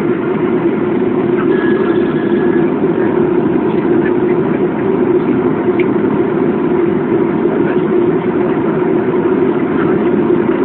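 Steady, loud drone of a Boeing airliner's jet engines and airflow heard inside the cabin, even and unbroken.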